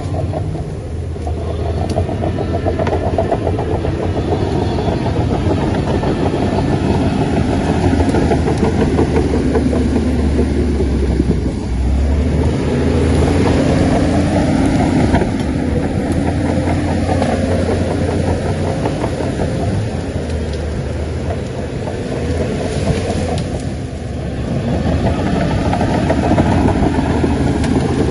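Bulldozer's diesel engine running under load, a steady low drone that swells and eases as the machine works, dipping briefly about halfway through and again near the end.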